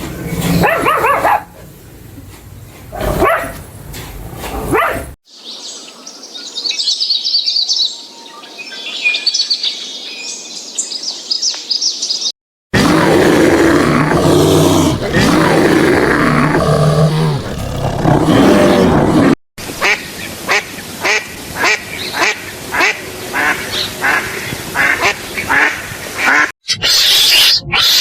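A run of short animal-call clips joined by abrupt cuts: high chirping in one, and a series of short repeated calls in another.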